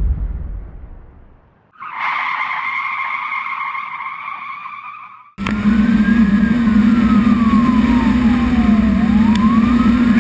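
Fire engine siren wailing in a slow rise and fall over the steady drone of the truck's engine, starting abruptly about halfway through. Before that, a low rumble fades out, then a steady humming sound fades away.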